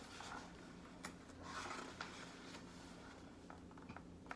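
Faint paper rustling and a few soft clicks as a picture book's pages are handled.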